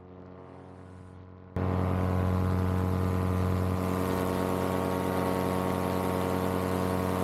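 Paramotor's Vittorazi Moster 185 single-cylinder two-stroke engine and propeller running steadily in cruise flight, with a rushing hiss of air on top. About one and a half seconds in, the sound comes up sharply from a muffled level to full loudness and then holds steady.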